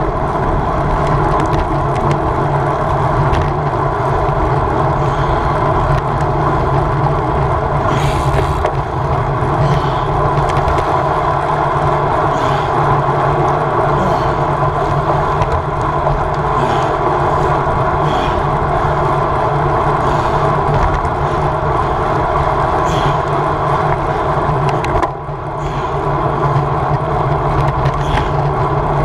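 Steady wind and rolling road noise from a racing bicycle in motion, with scattered light clicks and knocks from the bike.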